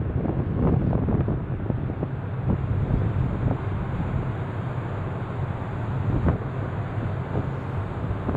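Wind buffeting the microphone in uneven gusts, over a steady low drone of a ferry's engines.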